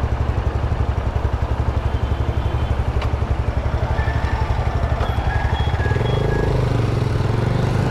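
Honda CG 160 Titan's single-cylinder four-stroke engine idling with an even pulsing beat, then revving up about six seconds in as the motorcycle pulls away from a standstill.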